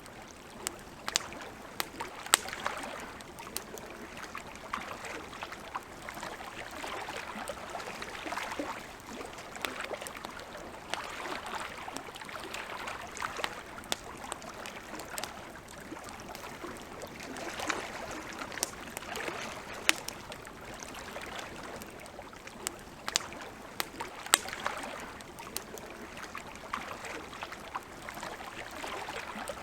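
Wood campfire crackling: sharp pops and snaps at irregular moments, several of them loud, over a steady hiss that swells and fades slowly.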